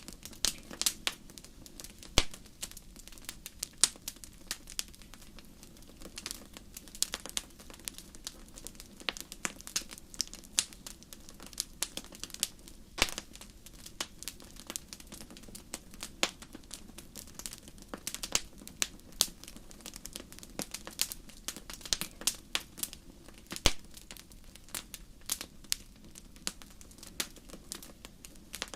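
Wood fire burning in a fireplace: irregular crackles and sharp pops over a steady low hiss, with a few louder snaps.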